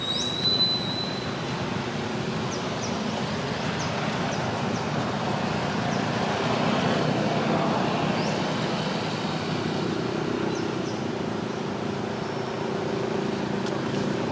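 Road traffic: a steady wash of passing-vehicle noise that swells about halfway through as a vehicle goes by, with a few faint short high squeaks over it.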